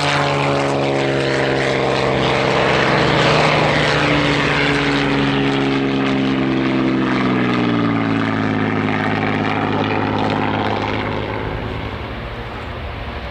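Propeller-driven World War II piston-engined aircraft flying past, a steady multi-tone engine drone whose pitch slides down midway as they pass, then fades somewhat near the end.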